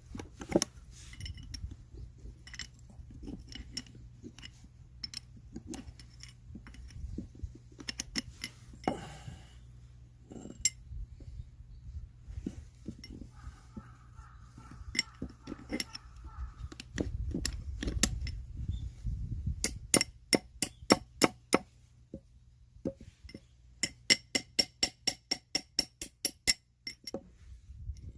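Metal tools clinking against metal parts during work on a Suzuki Jimny transmission, then two runs of evenly spaced ringing metal strikes, about three to four a second, the second run longer, like hammering or tapping a part loose.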